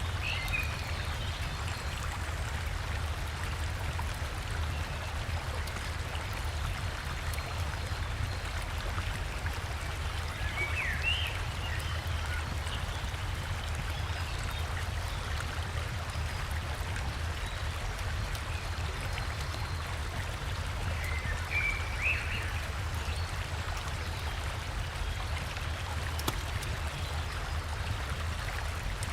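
Steady rushing of a river and small waterfall, with a deep low rumble under the flow. A forest bird gives short chirps now and then, about four times.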